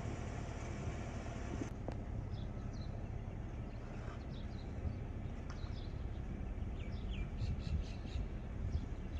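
Small birds chirping, short high calls scattered over a steady low rumble, growing busier near the end. A steady noise before them stops sharply about two seconds in.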